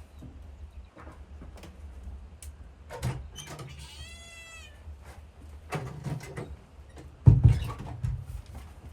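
Several knocks and thumps, the heaviest a little past seven seconds in, with one short high-pitched squeak or call holding its pitch for under a second about four seconds in.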